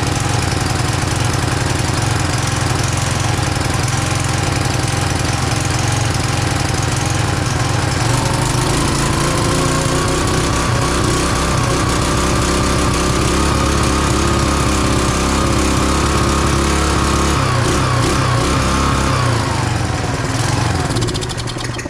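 Tecumseh small engine on a Craftsman pressure washer running on a newly swapped, not yet adjusted carburetor. Its speed picks up about nine seconds in and falls away near the end.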